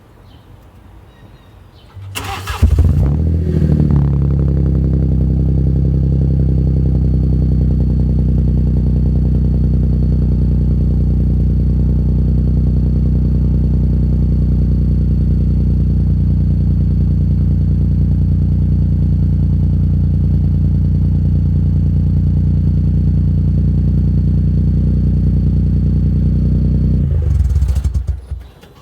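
Muffler-deleted 2015 Mini Cooper F56 (non-S) 1.5-litre turbo three-cylinder cranked by the starter, catching about two seconds in with a brief rev flare, then idling steadily with a deep exhaust note for over twenty seconds before being switched off near the end.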